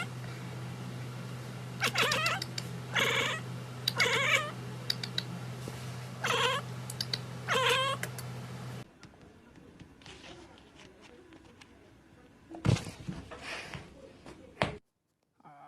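A cat meowing again and again: about five drawn-out, wavering meows over a steady low hum. After about nine seconds it goes quieter, with a few knocks near the end.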